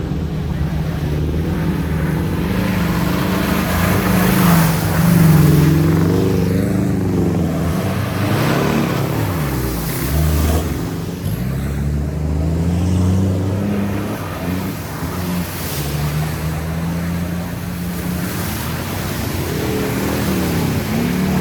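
Off-road vehicle engine running under load, revving up and down several times, with one deep drop and recovery about halfway through and another rise near the end.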